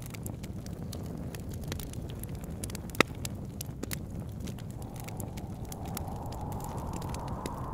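Wood fire crackling with scattered small pops and one sharp pop about three seconds in, over a steady low rumble of wind. From about five seconds in, a howl of wind comes up and rises slowly in pitch.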